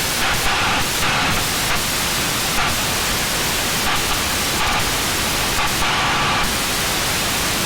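Steady in-flight cabin noise of a Cessna 172B: its six-cylinder Continental O-300 engine, propeller and airflow blending into an even rushing drone.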